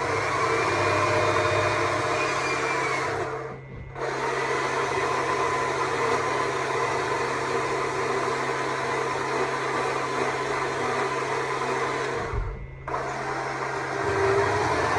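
Stihl MSA 200 C battery chainsaw running steadily with an electric motor whine, cutting wood. The trigger is let off briefly twice, a few seconds in and again near the end.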